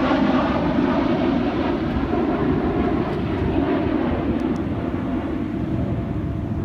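A fighter aircraft's engine making a loud, steady roar that slowly grows duller and a little quieter.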